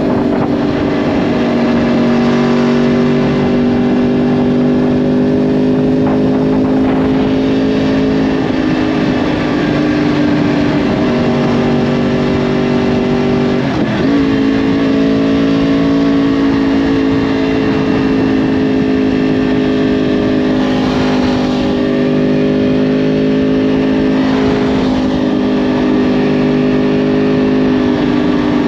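2010 Yamaha R1's crossplane-crank inline-four running through a Yoshimura exhaust while riding at a steady cruise. Its note holds fairly level, and about halfway through it briefly dips, then rises and settles at slightly higher revs.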